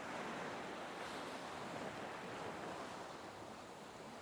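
Recorded ocean waves washing on a shore: a soft, steady surf hiss that swells gently and eases back.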